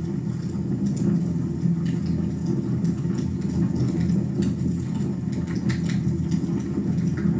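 Wood fire in a fireplace burning, a steady low rumble of the flames with a few faint crackles scattered through it.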